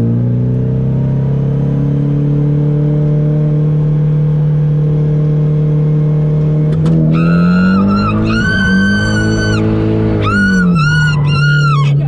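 Nissan 240SX drift car's engine holding a steady note, then revving up and down, with a run of high-pitched squeals from about seven seconds in.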